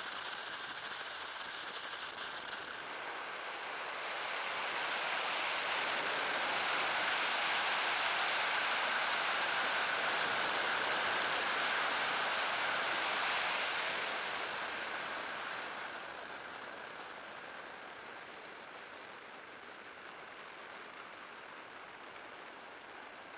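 Propeller and airflow noise of an electric trike driven by a Rotex REX30 electric motor: a steady hiss with a faint whine. It swells over a few seconds, holds, then fades.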